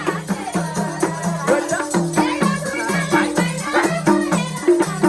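Nepali dohori folk music playing as an instrumental passage: a steady rhythm of pitched drum beats with a shaker rattling, and a melody winding above.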